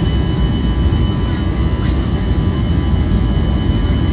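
Steady noise of a passenger airliner's engines and airflow as heard in the cabin: a deep, even rumble with a few faint steady whines above it.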